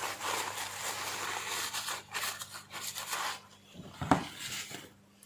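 Light handling noises from a hair trimmer's plastic cutting head being worked apart by hand: scratchy rubbing and small ticks, then one sharper click about four seconds in.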